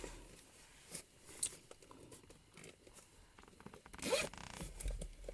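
A zipper being pulled, loudest about four seconds in, after a few faint clicks and rustles of handling.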